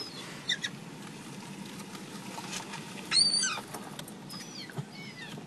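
Gulls calling: a short high cry near the start, a loud squeal about three seconds in that falls in pitch, and a few fainter falling cries after it, over a steady background noise.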